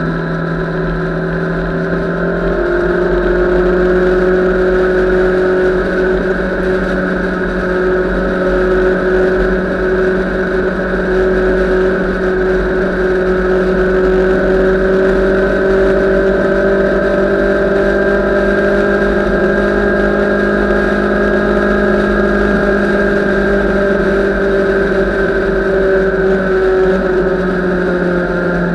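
Motorcycle engine running steadily at highway cruising speed, its pitch rising slightly a few seconds in and easing off gently near the end.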